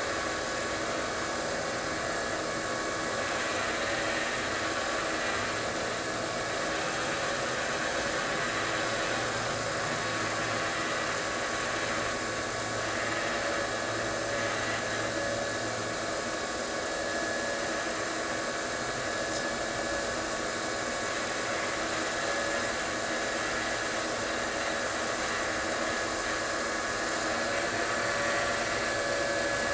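Wood lathe running steadily with a wooden bowl spinning on it while it is sanded: an even hiss with a constant motor whine.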